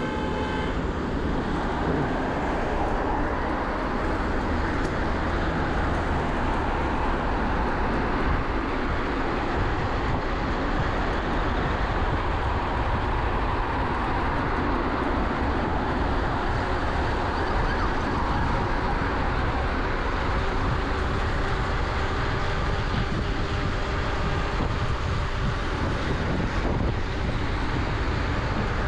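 Steady rushing road and traffic noise heard while riding an electric mountain bike along a road, with a strong low rumble throughout.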